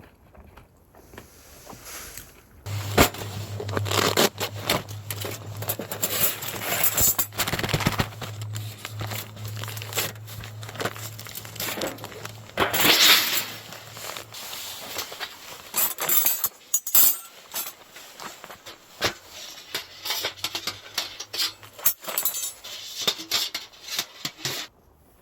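Campfire crackling and popping: a dense run of irregular sharp pops and snaps from burning wood, with a low steady hum under the first half, starting suddenly a few seconds in and cutting off just before the end.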